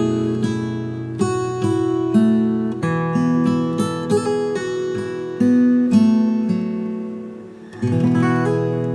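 Acoustic guitar playing a slow, gentle instrumental of plucked notes, with a chord struck near the end and left to ring and fade.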